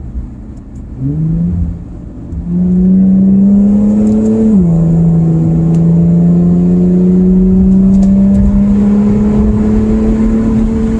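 Infiniti Q50's twin-turbo V6 pulling through an aftermarket catback exhaust with no resonator, heard from inside the cabin with the windows up. A short rev about a second in, then the engine note climbs steadily under load, drops at an upshift about four and a half seconds in, and climbs again.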